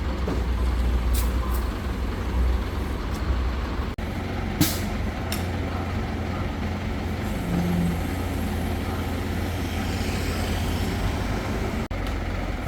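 A heavy engine runs steadily with a low rumble, with a few short hisses about a second in and again around four and a half and five seconds in.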